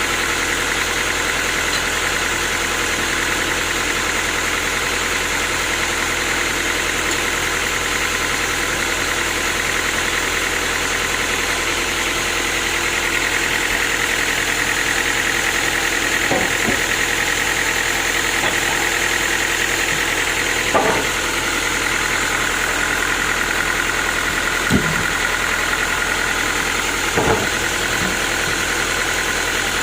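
Sawmill machinery running steadily: a continuous motor hum with a high whine, and four short knocks in the second half.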